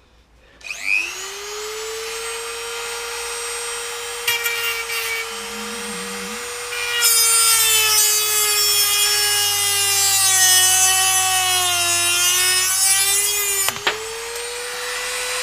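Dremel rotary tool with a cut-off disc spinning up about a second in, then cutting a slot into a steel wheel bearing outer race seized on the hub. From about seven seconds the cutting grows louder and grinds, and the motor's pitch sags under the load. Near the end the cut eases off and the tool speeds back up.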